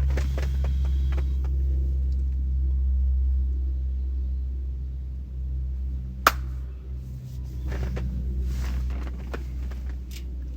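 A low, steady rumble with a few light knocks, and one sharp click about six seconds in.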